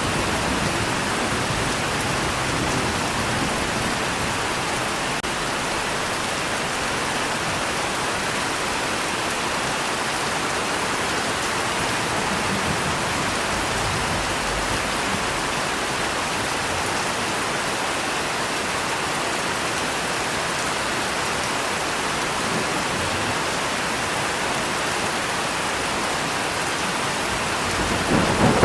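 Steady rain falling, an even hiss without breaks; a low rumble of thunder starts to come in near the end.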